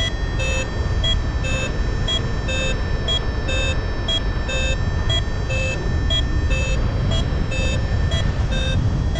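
Paragliding variometer beeping in short, quick pips about twice a second, the sound it makes while the glider is climbing in lift, over a steady rush of wind on the microphone.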